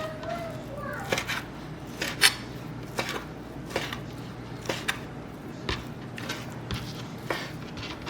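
Knife chopping a red snapper fillet into bite-sized chunks on a cutting board, a sharp knock about once a second, over a steady low hum.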